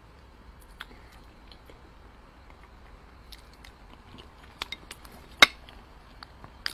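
Quiet chewing of braised pork belly with small wet mouth clicks, close to the mic. About four and a half seconds in come several sharp clicks of chopsticks against a porcelain rice bowl, the loudest a single hard tap.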